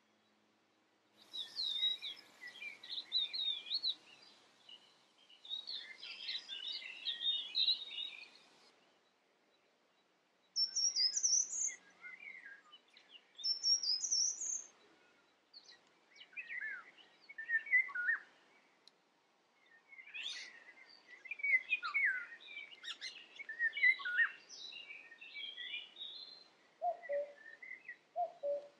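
Songbirds singing and chirping in stretches of a few seconds that start and stop abruptly, with short near-silent gaps between them. Near the middle there are high, rising twittering phrases, and near the end a few lower notes.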